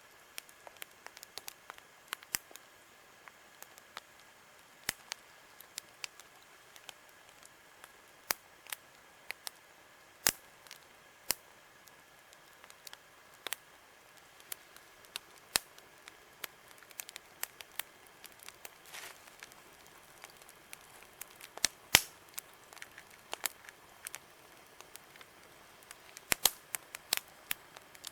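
Wood campfire crackling: irregular sharp pops and snaps, some much louder than others, over a faint steady hiss.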